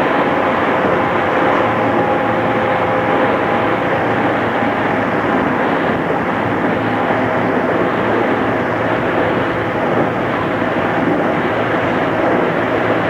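Running noise heard inside a JR East 211 series electric train at speed: steady wheel-and-rail rumble with traction-motor and gear whine. The whine tones fade out about four seconds in, leaving the even running noise.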